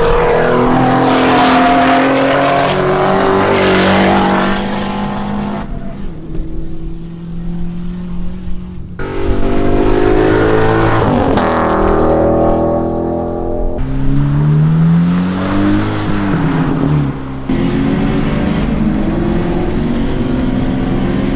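Volkswagen race car engine running hard around a circuit, its pitch rising and falling as it accelerates and lifts off. The sound breaks abruptly several times, as one clip is cut to the next.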